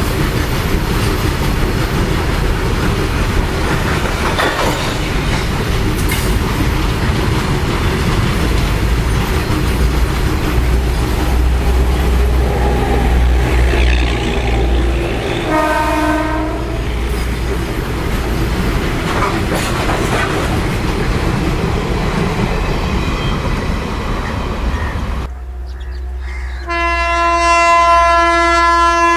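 Indian Railways freight train running past with a steady rumble and clatter of wagons on the rails, and a short locomotive horn blast about halfway through. Near the end a locomotive horn sounds long and loud.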